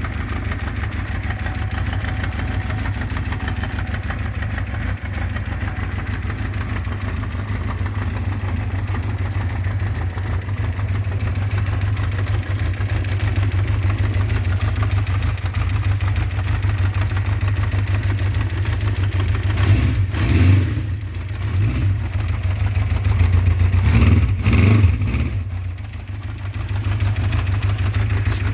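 1977 Honda CB550K's air-cooled inline-four engine idling steadily after a cold start, revved briefly twice about two-thirds of the way through.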